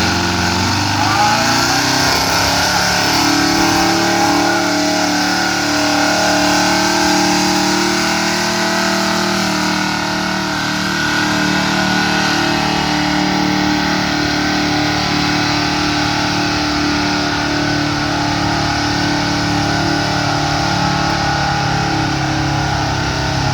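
Gasoline pickup truck engine at full throttle, pulling a weight-transfer sled in a street gas truck pull. It climbs in pitch over the first few seconds, then holds steady and loud under load until it drops away at the very end.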